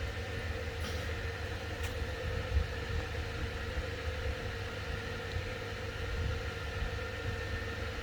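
Steady low mechanical hum with a constant rumble underneath, like a fan or appliance running.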